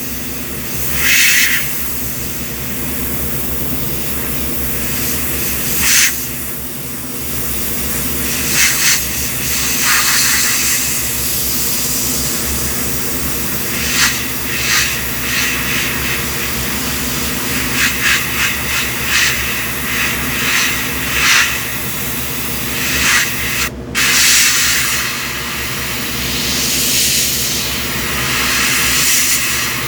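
Airbrush spraying paint in repeated short hissing bursts over a steady low mechanical hum.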